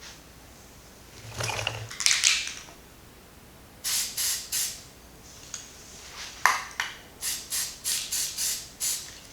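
Silicone and acrylic paint being stirred together in a container, a tool scraping against its sides in short strokes, the last run about three strokes a second.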